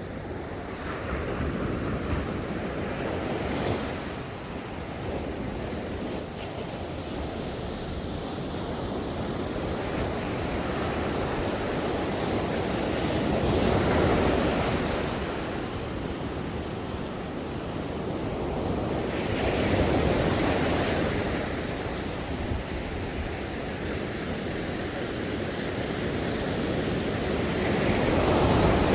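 Ocean waves washing on a shore, a steady rush that swells and eases as each wave breaks, with peaks about every six to ten seconds.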